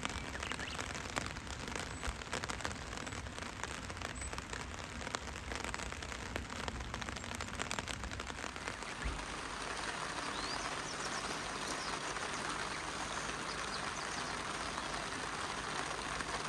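Rain falling, at first heard as many separate drop taps; about nine seconds in it changes to a steadier, even hiss.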